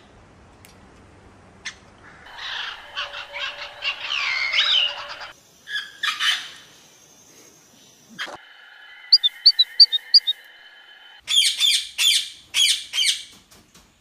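Several different birds calling in turn: a stretch of dense chirping, then a quick run of short high notes, then loud repeated calls near the end.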